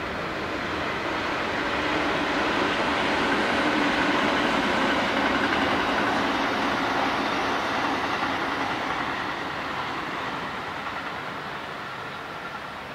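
A long electric container freight train runs past at a distance, its wagons rolling along the rails in a steady rumble. The noise swells to a peak about four seconds in, then slowly fades as the train draws away.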